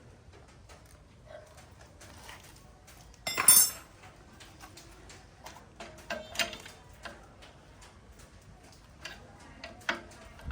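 Small metal parts and tools clinking and tapping as they are handled, with one louder metallic clatter about three and a half seconds in.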